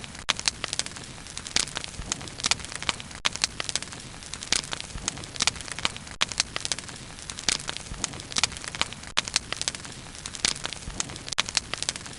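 Wood fire burning with frequent irregular crackles and pops over a steady low hiss.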